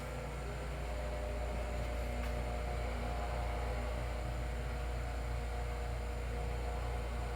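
Electric hoist winch motor running with a steady hum as it lowers a fishing kayak on its cable.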